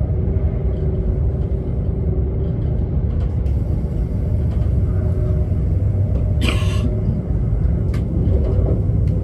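Steady low rumble of an ICE high-speed train running at speed, heard inside the passenger cabin, with a brief hiss about six and a half seconds in.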